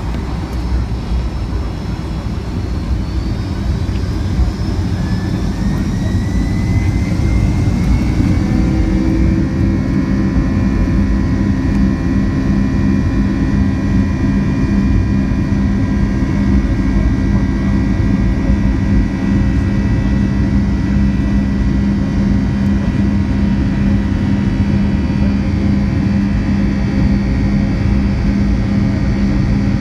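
Boeing 757's Pratt & Whitney PW2000-series turbofans spooling up for takeoff: their whine rises in pitch over the first eight seconds or so, then holds steady at takeoff thrust over a heavy rumble.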